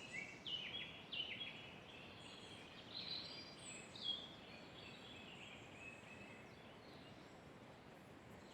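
Songbirds singing: a quick run of short chirps and trills in the first four seconds or so, thinning out after that, over a steady faint hiss.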